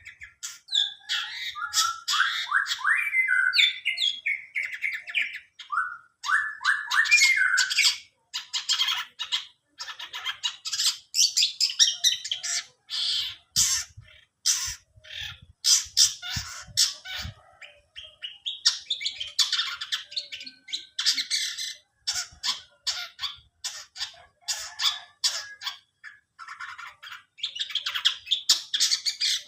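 A caged songbird singing a long, varied song packed with imitated calls of other birds. Quick changing phrases mix gliding whistles, rapid stuttering note series and harsh squawk-like notes, with only short pauses.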